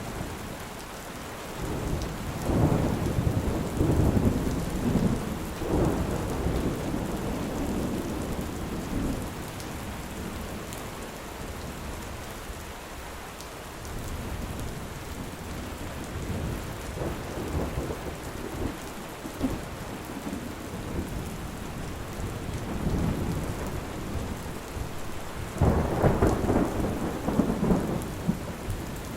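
Steady heavy rain with thunder rumbling, a long rolling peal in the first third and another loud one near the end.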